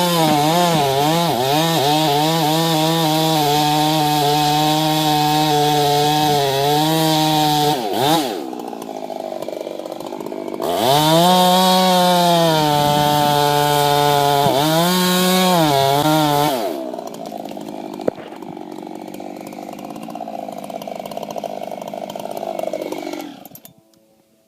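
Chainsaw cutting at full throttle, its pitch dipping and recovering again and again as it bogs in the wood. It eases off about eight seconds in and revs back up a couple of seconds later. About two-thirds of the way through the engine note cuts out, leaving a quieter steady noise that fades out near the end.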